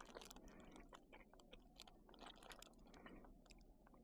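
Faint close-up chewing of a Gushers fruit snack, with soft, irregular wet clicks of the mouth.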